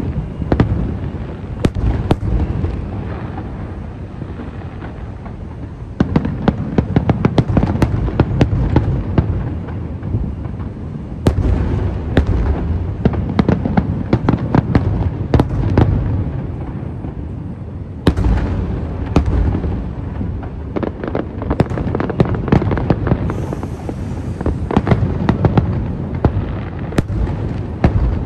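Aerial fireworks display: rapid volleys of sharp bursts and crackling over deep booms, coming in waves that swell up again every several seconds.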